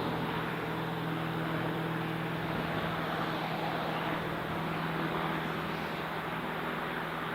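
Light aircraft's piston engine running at a steady, unchanging pitch: a constant drone.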